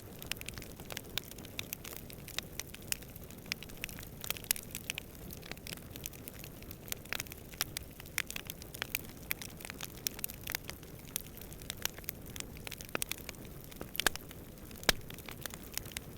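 Wood campfire burning, with many irregular crackles and sharp pops over a steady low rumble of distant wind; two louder pops come near the end.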